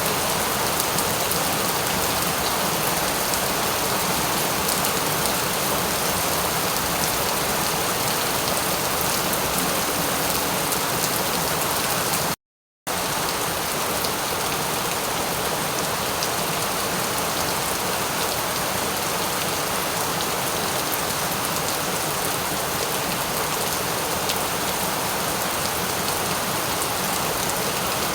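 Steady rain falling, a dense, even hiss with a fine patter of drops. About twelve seconds in the sound cuts out completely for under half a second, then resumes at the same level.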